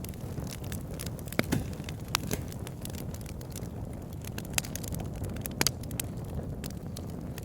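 Campfire burning with a low steady rumble and irregular sharp crackles and pops from the burning wood, a few louder pops about one and a half, two and five and a half seconds in.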